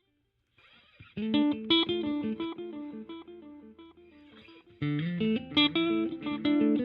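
Electric guitar played through a Donner Yellow Fall II delay and reverb pedal on its digital delay setting: picked single-note phrases with echo repeats trailing each note, the delay's tone control set to change the sound of the repeats. Silent for about the first second, then a phrase, and a second, louder phrase about five seconds in.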